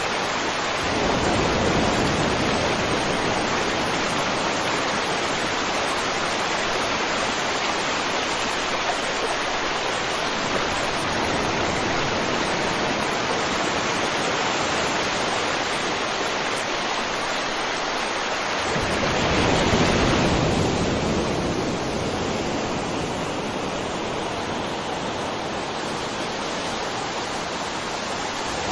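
Steady rushing water, swelling louder briefly near the start and again about two-thirds of the way through.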